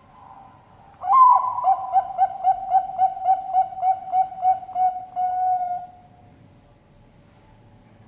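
Bangkok-type zebra dove (perkutut) cooing one full song. It starts with an opening note about a second in, then a quick run of about a dozen short coos at roughly three a second, ending on a longer drawn-out note.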